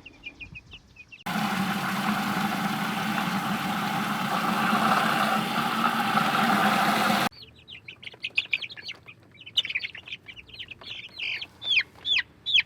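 Baby chicks peeping: many quick, high, falling peeps. About a second in, a loud steady rushing noise cuts in and drowns them for about six seconds, then stops abruptly and the peeping returns.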